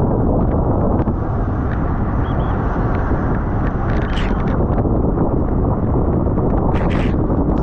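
Wind rushing over the microphone of a camera on a bicycle ridden at race speed, a steady loud rush with scattered short clicks and rattles.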